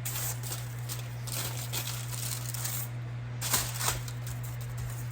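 Kitchen handling noises: a light rattling, shaking sound with two sharper clicks about three and a half seconds in, over a steady low electrical hum.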